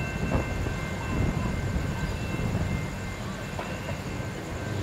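Diesel passenger train approaching, a steady low rumble from the locomotive and train on the rails.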